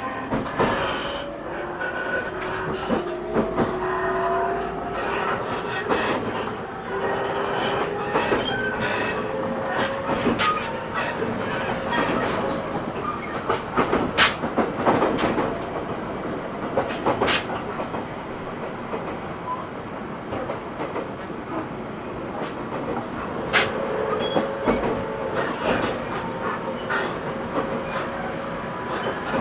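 Cabin running sound of an E127 series 0 electric multiple unit. The traction motor whine rises in pitch as the train accelerates over the first several seconds, and the wheels click steadily over rail joints, with a few louder clicks midway.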